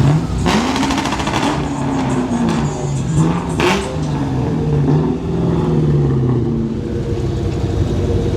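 Car engine revving, its pitch climbing and falling several times.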